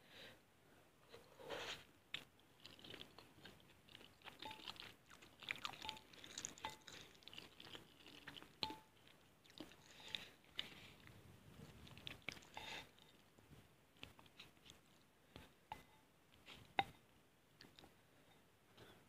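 Quiet, close-miked eating of fried instant noodles: chewing and biting with some crunching, broken up by short clicks, including wooden utensils knocking against the glass bowl.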